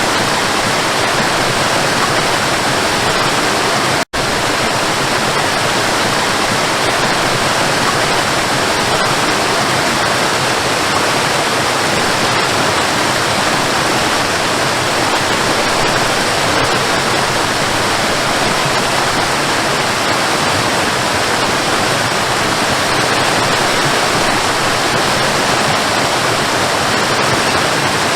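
Waterfall: the steady, dense rush of falling water, with one momentary dropout about four seconds in.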